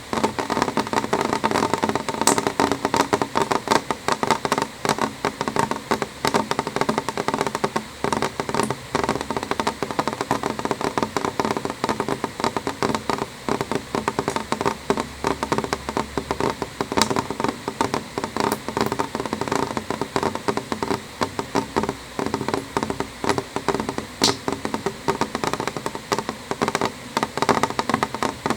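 Rain on a window pane: a dense, irregular run of drop taps, with a few sharper, louder drips standing out now and then.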